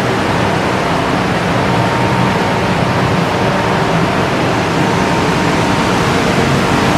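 Ship's engine-room machinery running steadily: a loud, even noise with a faint steady whine in it.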